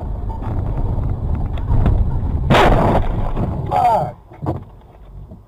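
Vehicle rumble on the road, broken about two and a half seconds in by a single loud bang of a collision lasting about half a second. A short wavering squeal follows, and the rumble falls away about four seconds in.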